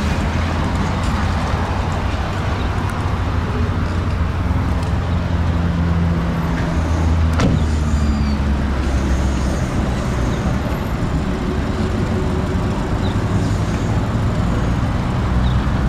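Steady low motor-vehicle rumble with a hum that shifts in pitch now and then, and a single sharp click about seven and a half seconds in.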